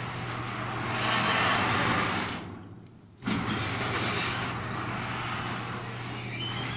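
Garage door opener motor running, a steady hum with rattling drive noise. It stops briefly about two and a half seconds in and starts again abruptly about a second later.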